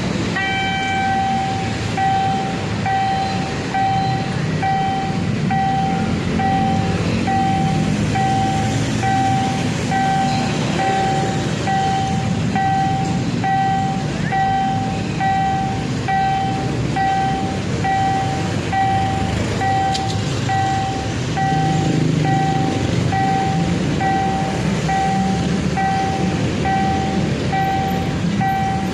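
Railway level-crossing warning bell ringing in an even electronic ding about one and a half times a second, signalling that a train is approaching and the crossing is closed, over a steady low rumble of traffic.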